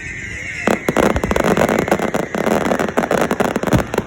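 Fireworks going off: a rapid string of sharp bangs that thickens into dense crackling about a second in and eases near the end, over a steady high-pitched whistle.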